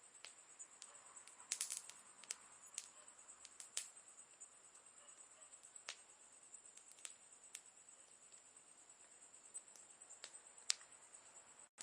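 Campfire crackling faintly: sparse sharp pops and snaps of burning wood, a small cluster about a second and a half in and the sharpest near the end, over a faint steady high hiss.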